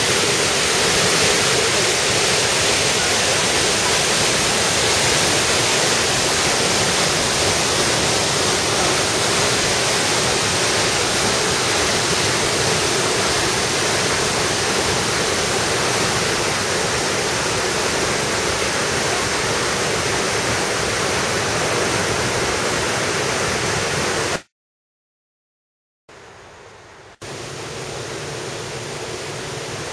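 Rushing water of a valley waterfall and stream, a loud steady hiss. It cuts out abruptly for about a second and a half some 24 seconds in, then returns quieter.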